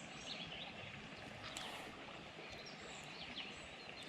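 Faint bird chirps, short and scattered, some sliding in pitch, over a steady outdoor background hiss.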